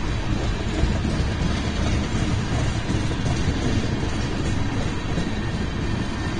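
BNSF freight train rolling past: a steady, dense rumble of wheels on rail, with faint steady tones riding over it.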